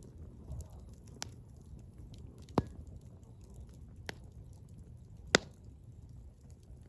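Wood fire burning with a low steady rumble and four sharp crackling pops from the firewood; the loudest come about two and a half and five and a half seconds in.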